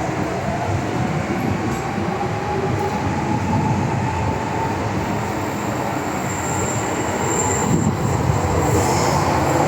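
MTR M-train electric multiple unit running underground between stations, heard from inside the car: a steady rumble of wheels and motors with a faint whine rising slightly in pitch early on and a thin high wheel squeal a few seconds before the end.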